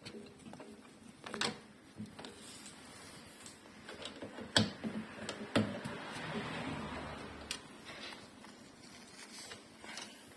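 Scattered clicks and knocks of hand work on parts, two sharper knocks about four and a half and five and a half seconds in, then a soft rustling or scraping for a couple of seconds.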